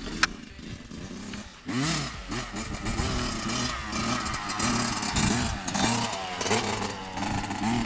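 Dirt bike engine coming in loudly about a second and a half in and revving up and down again and again as the bike pulls away under a beginner's throttle. A single sharp click just before.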